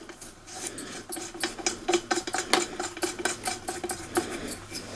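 Spark plug being screwed into the engine by hand with a plug spanner: a rapid run of small metallic clicks and scraping.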